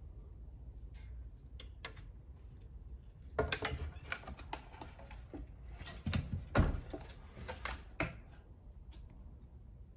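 Irregular knocks and scrapes of someone moving through an empty room, in two busy clusters about a third and two thirds of the way through, then one last knock. A low hum runs underneath.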